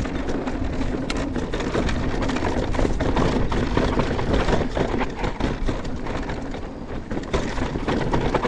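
Mountain bike riding downhill on a rough dirt trail: tyres rolling over dirt, with constant small clatters and knocks from the bike over bumps and a heavy rumble of wind or ground noise at the low end.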